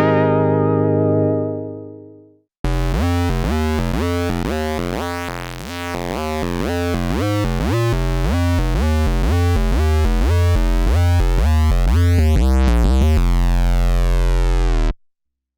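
Sequential Fourm four-voice analog poly synth, played dry with no effects. A previous patch dies away in the first two seconds. After a short gap the 'Hollo Legato' factory preset plays a quick legato run of notes over a moving bass line, settles on a held chord near the end and cuts off suddenly.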